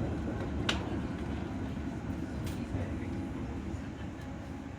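London Tramlink tram running along its track, heard from inside the passenger car as a steady low rumble that gets slightly quieter toward the end. A sharp click comes about two-thirds of a second in.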